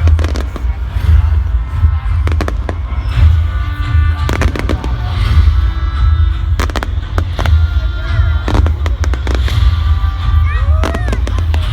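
Fireworks going off in a display, a string of sharp bangs every second or so, over loud music from a sound system with a heavy steady bass. A few rising whistles come near the end.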